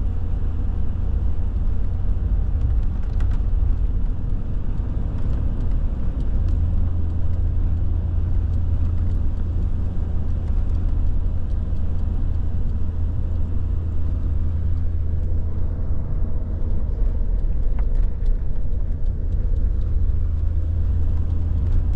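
Steady low rumble inside a moving vehicle as it drives a plowed, snowy road: engine and tyre noise heard from the cab, with a few faint clicks.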